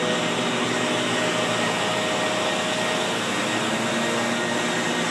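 A machine running steadily nearby, a loud even hiss over a few steady hum tones, unchanging throughout.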